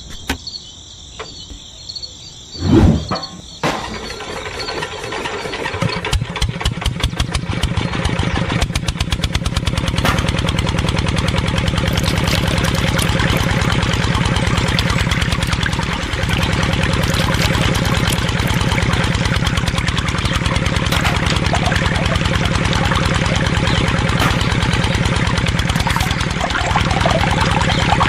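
Music is cut off by a thump about three seconds in. A small engine then starts, its firing pulses quickening over the next few seconds, and settles into steady running.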